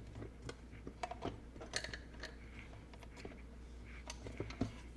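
Faint scattered clicks and light taps of hands screwing a cable fitting onto an enclosure and handling the wire, over a low steady hum.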